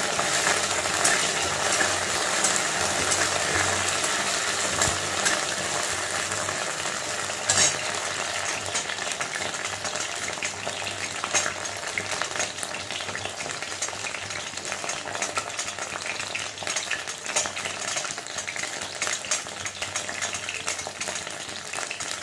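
Pieces of taro frying in hot oil in a metal kadai, sizzling steadily, loudest at first and easing off gradually. A flat metal spatula stirs them, scraping against the pan with occasional clicks.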